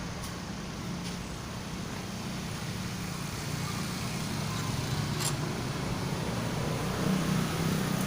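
A steady low hum with a noisy rumble under it, a little louder in the second half, and a few faint sharp clicks.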